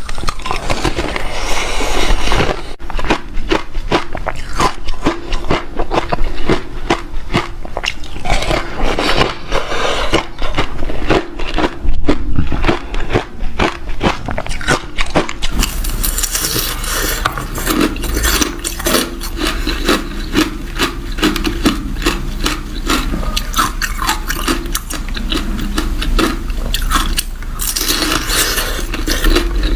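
Close-miked biting and chewing of hard ice: a dense, continuous run of crisp crunches. About halfway through, the crunching turns brighter and sharper.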